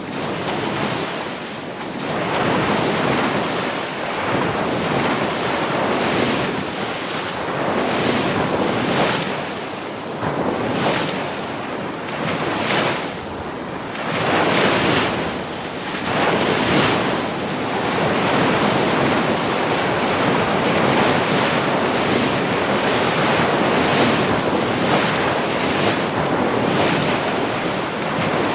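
Ocean surf: waves breaking and washing in continuously, the rush swelling and ebbing every second or two. It rises to full level over the first couple of seconds.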